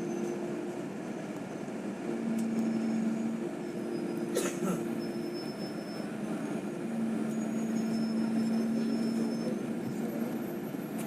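Inside a moving bus: steady engine hum and road noise, with low humming tones that fade in and out, and one brief sharp knock or rattle about four seconds in.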